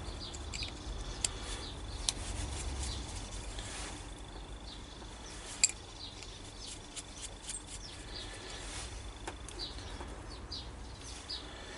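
Small birds chirping in short calls, with a few sharp clicks of small objects being handled, the loudest about halfway through, over a thin steady high whine.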